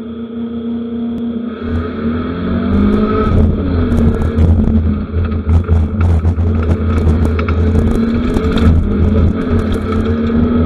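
BMW 318ti rally car's engine heard from inside the cabin: idling, then about a second and a half in it revs up and the car launches, pulling hard through the gears with the pitch rising and dropping back at each shift. Sharp clicks and rattles sound over the engine throughout.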